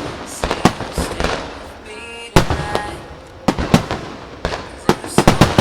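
Aerial fireworks shells bursting in quick, irregular succession, sharp bangs each followed by a short echo, with a thick cluster of bursts near the end.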